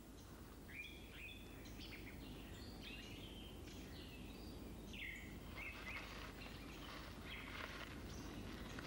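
Faint bird calls: a series of short chirps and brief gliding whistled notes, more frequent in the second half, over a steady low hiss.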